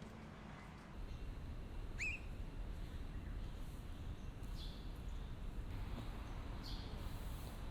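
Faint field recording of a steady low rumble with a few short bird chirps: one rising chirp about two seconds in, then two brief high chirps later.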